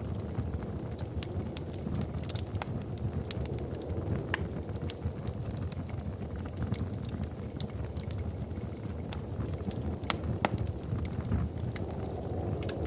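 Wood fire crackling in a fireplace: irregular sharp pops and snaps over a low steady rush of burning.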